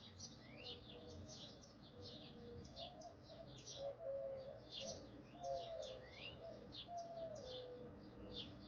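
Many birds chirping together in quick, high notes, with lower held calls, some stepping down in pitch, between about a second and eight seconds in.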